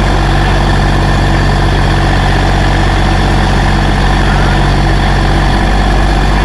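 Massey Ferguson tractor engine running steadily at low speed with an even drone, loud and close to the microphone.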